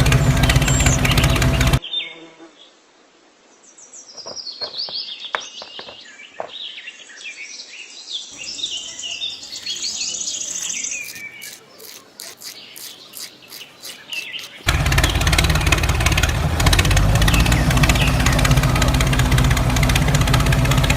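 Birds chirping for about thirteen seconds, with many short high calls, set between stretches of a loud steady hum that stops about two seconds in and comes back near the end.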